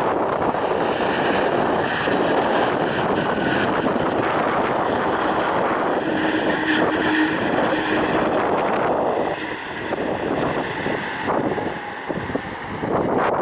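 Jet airliner's engines heard passing close, a loud, steady rushing noise with a faint whine in it. The noise eases a little about ten seconds in.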